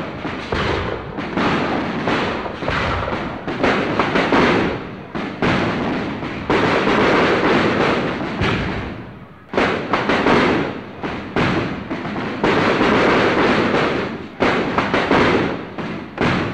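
Fireworks finale: rapid, overlapping booms and bursts of crackle, one close on another, with a brief lull about nine seconds in.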